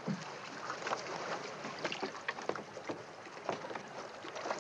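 A small boat at the water's edge: water lapping against the hull, with scattered light knocks and clicks throughout.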